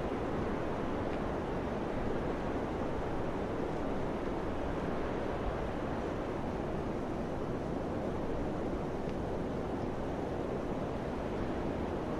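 Wind blowing steadily, a continuous rushing that swells and eases only slightly, with some low rumble beneath it.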